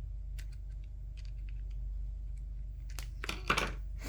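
Small clicks and taps of plastic headset parts being handled, with a louder cluster of clicks and rustling near the end, over a steady low hum.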